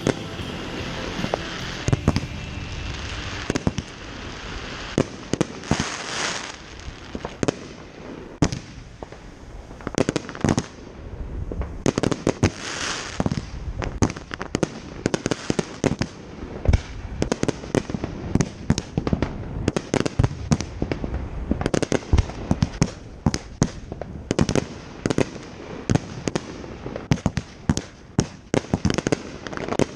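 Fireworks show going off: a dense, irregular run of sharp booms and bangs from shells bursting, with stretches of hiss about six seconds in and again around twelve to thirteen seconds.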